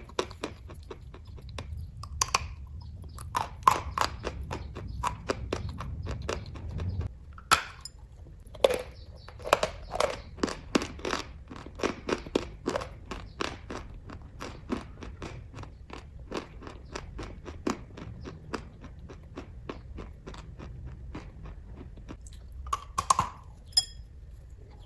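A person chewing kaju katli (cashew fudge) close to the microphone, making a dense, irregular run of short mouth clicks with a few louder ones.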